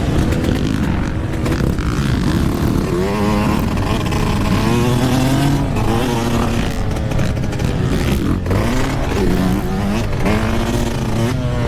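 Yamaha YZ125's single-cylinder two-stroke dirt bike engine revving hard and easing off again and again as it is ridden, its pitch repeatedly climbing and dropping, with a brief sharp drop about eight and a half seconds in.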